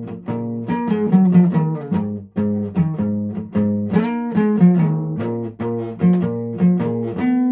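Guitar playing a steady run of picked notes and chords over repeating low notes, each note plucked and left to ring.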